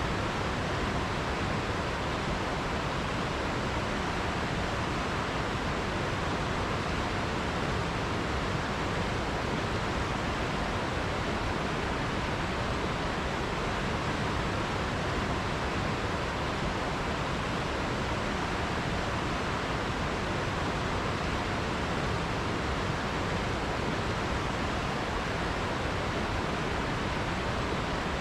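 River water rushing steadily, an even, unbroken hiss with no separate splashes or other events.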